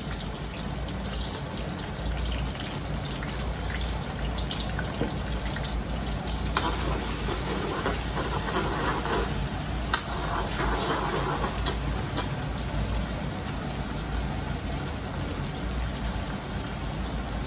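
Sliced onions and ginger-garlic paste frying in hot ghee in a karahi, a steady sizzle. A metal ladle stirs them, knocking against the pan a few times around the middle.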